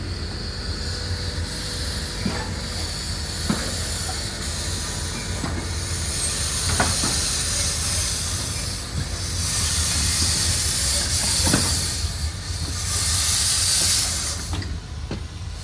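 Miniature live-steam locomotive hissing steam, swelling louder for several seconds past the middle, over a steady low rumble, with scattered sharp metallic clicks from wheels and couplings.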